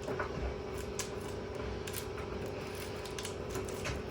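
LG washing machine running while it is being wrecked: a steady motor hum with irregular clicks, rattles and a few low knocks from its loosened, broken parts.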